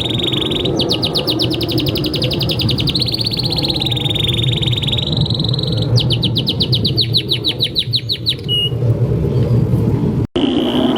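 Domestic canary singing a long, unbroken song: fast trills of rapidly repeated notes alternating with held, wavering whistles, over a steady low background noise. The audio drops out for a moment near the end.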